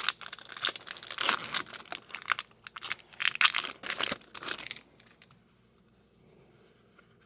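A hockey card pack's wrapper being torn open and crinkled by hand, a dense run of crackling and tearing that stops about five seconds in.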